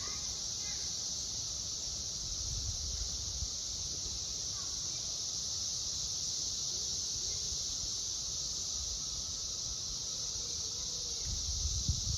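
Chorus of periodical cicadas: a steady, unbroken high drone from many insects singing at once.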